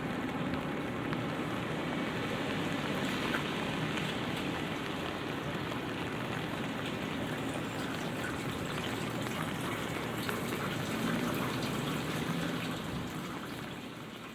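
Light rain falling, drops ticking on an umbrella overhead as a steady patter, fading out near the end.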